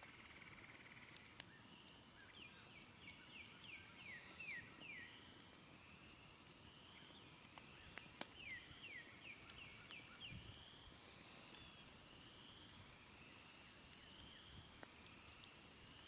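Smoldering campfire crackling faintly with scattered sharp pops, the loudest about eight seconds in. Birds sing softly in the background: two runs of quick falling notes and a string of short rising whistles.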